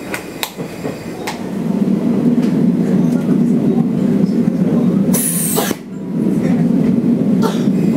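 Running noise of a Sanriku Railway diesel railcar heard from inside, getting louder about a second and a half in, with a few sharp clicks and a brief high hiss about five seconds in.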